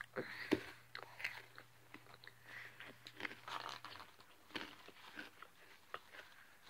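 A person chewing a bite of food close to the microphone: soft, irregular crunches and mouth clicks.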